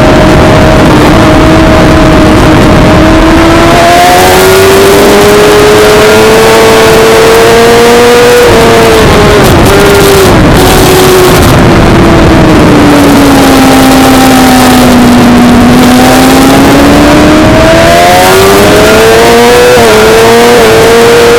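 Suzuki GSX-R600's inline-four engine running hard on track under heavy wind noise. The revs climb, drop sharply with quick blips about 8 to 10 seconds in, sag low through the middle, then climb again with a couple of quick shifts near the end.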